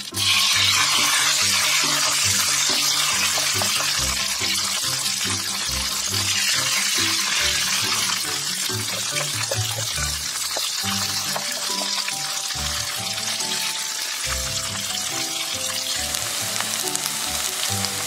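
Hot oil sizzling hard as grated potato and salami hash-brown mixture hits the pan. The sizzle starts suddenly, is loudest for the first couple of seconds, then settles into a steady frying sizzle.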